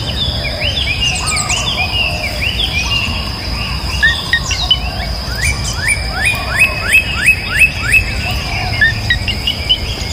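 Small birds chirping, with short rising chirps; about five seconds in a run of them comes at about three a second, the loudest part. A steady high-pitched whine runs beneath.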